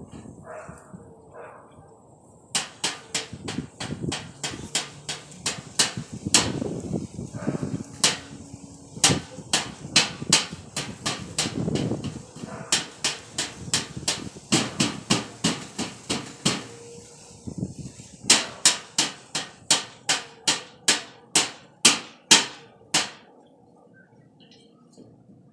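A toddler banging on something hard over and over: sharp knocks about two to three a second, stopping briefly about two-thirds of the way through and then starting again before ending near the end.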